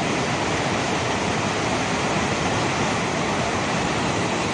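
Overflowing lake water rushing steadily, a continuous even rush with no breaks.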